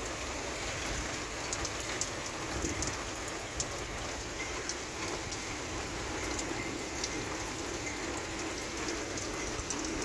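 Thunderstorm rain falling steadily, with many individual drops ticking sharply on a hard surface.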